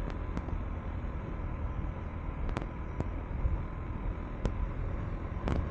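Single-cylinder engine of a KTM 390 Enduro R dirt bike running steadily under way on a dirt road, heavy low rumble with wind noise, and a few sharp clicks.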